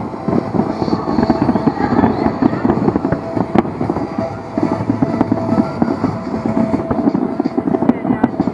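Large fireworks display: a dense, continuous barrage of bangs and crackles, with one sharper crack about three and a half seconds in.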